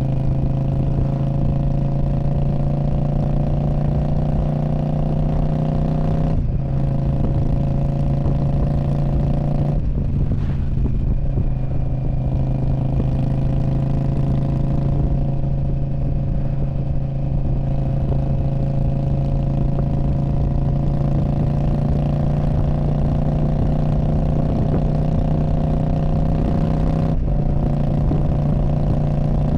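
A 2019 Indian Scout Bobber's V-twin running through a Freedom Performance Radical Radius exhaust, holding a strong, steady note whose pitch creeps slowly upward. The note dips briefly about six seconds in, again at ten seconds, and near the end.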